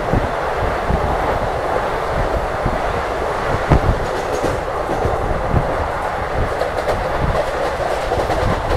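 Hussain Sagar Express sleeper coach running along the track at speed: a steady rush of wheel and rail noise with irregular clacks and knocks as the wheels pass over rail joints.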